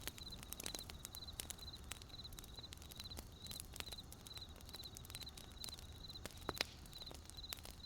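Wood campfire crackling with irregular sharp pops, one louder pop about six and a half seconds in, over a cricket chirping steadily in short pulsed chirps about twice a second.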